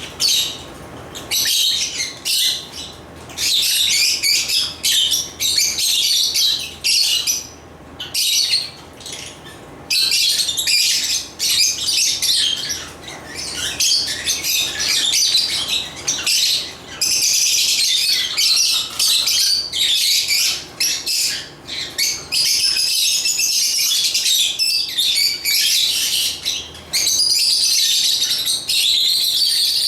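African lovebirds (Agapornis) chirping in a dense, high-pitched chatter. It comes in bursts with short gaps through the first half and runs almost unbroken in the second half.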